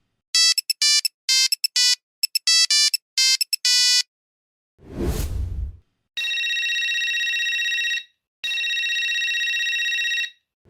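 An electronic phone ringtone plays a quick melody of short beeping notes that ends on a longer note. A whoosh follows, then a second electronic ringer sounds twice, each ring a steady buzzing tone about two seconds long.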